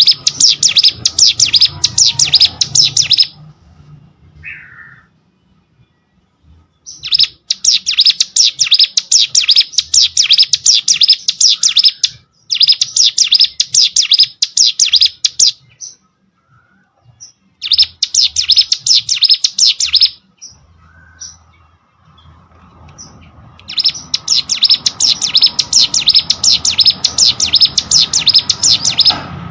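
Ciblek sawah, a small Indonesian prinia, singing loudly and close-up: rapid, high-pitched trains of chirps repeated many times a second, in bouts of about three to five seconds broken by short pauses.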